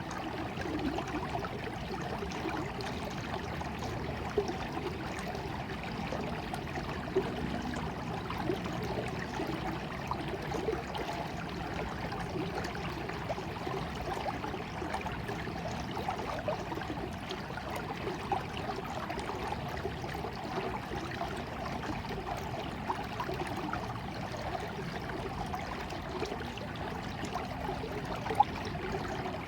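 A shallow stream running and trickling steadily over stones, with small splashes and gurgles throughout.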